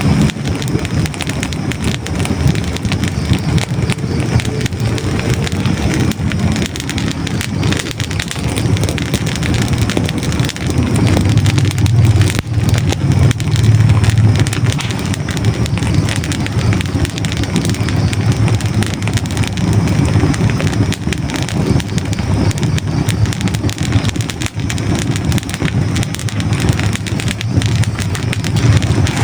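Hardwood logs burning in a fireplace: continuous dense crackling and small pops over the low rumble of the flames.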